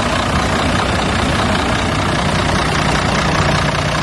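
Heavy diesel truck engine idling, steady and loud.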